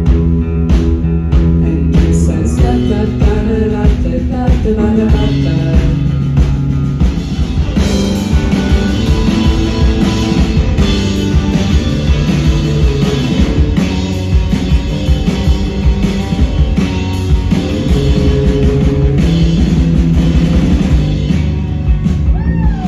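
Live rock band playing loudly, with drum kit, electric guitar and singing.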